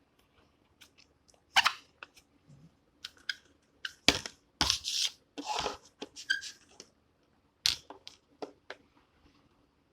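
Irregular clicks and rubbing, with a few short hissy bursts about halfway through, as a hand air pump is handled and baby oil is worked into its creases to stop its squeak.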